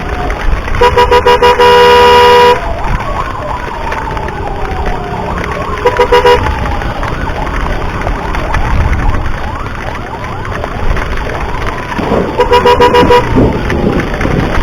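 Ambulance siren wailing in slow falling sweeps, with loud horn blasts over it: a rapid stuttering run that turns into a held blast about a second in, a short burst of toots near the middle, and another stuttering run near the end. A low rumble runs underneath.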